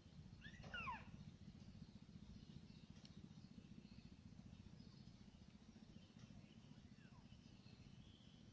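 A bird calling faintly over a low steady rumble. About half a second in comes a quick pair of falling whistled notes, and a fainter falling note follows later, with faint high calls in the background.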